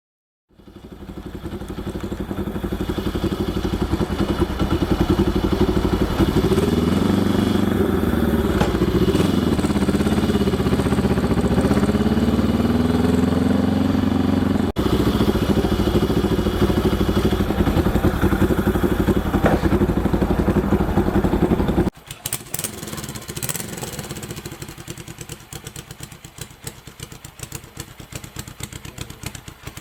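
Honda CL72's air-cooled 250cc parallel-twin running through its exhaust, with the revs rising and falling several times in the middle. About two-thirds of the way through it drops abruptly to a quieter, uneven idle.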